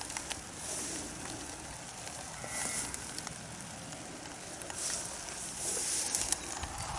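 Steady rain falling on grass and plants: a fine hiss, with brief louder swishes every second or two.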